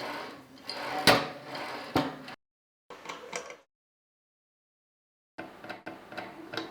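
Handling noise from working on an old typewriter's parts: a run of clicks and knocks, with a sharp knock about a second in and another about two seconds in, then a short cluster of clicks and, near the end, another run of small clicks, with dead silence between them.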